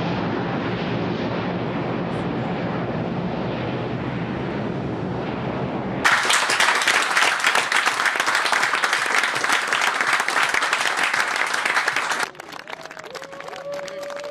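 A steady jet-engine rumble, the Airbus A350 XWB's engines. About six seconds in it cuts abruptly to a crowd applauding loudly, which stops suddenly near the end and leaves a quieter background with a faint gliding tone.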